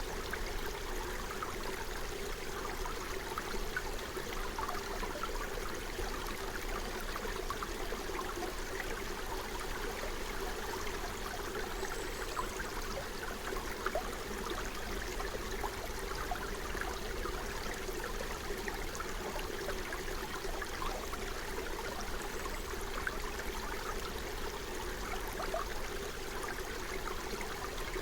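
Forest stream flowing steadily: a constant rush of running water, flecked with many small splashes and gurgles.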